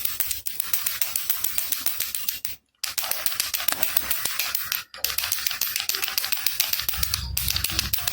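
A baby rattle (jhunjhuna) being shaken, a fast, dense clatter of its beads. It stops briefly twice, about two and three-quarter seconds and five seconds in. A low rumble joins the rattling near the end.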